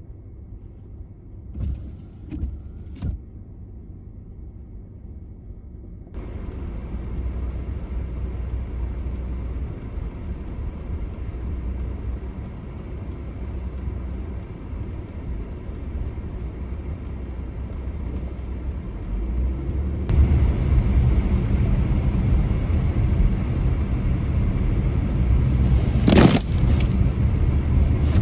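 Vehicle driving: a steady low road-and-engine rumble that gets louder in two sudden steps, with a few light clicks near the start and one brief loud whoosh about two seconds before the end.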